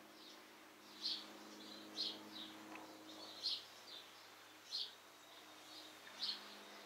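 A bird chirping repeatedly: five short, high chirps, each about a second to a second and a half after the last, over a faint steady low hum.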